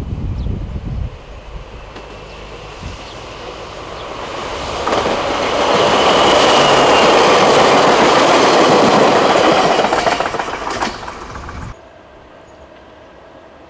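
Chichibu Railway 7500-series electric train running past close by: a rushing wheel-on-rail noise swells up, with a brief wheel squeal in the middle and a few sharp rail-joint clicks as the last cars go by. It cuts off abruptly a little before the end, leaving quiet background. There is wind noise on the microphone at the start.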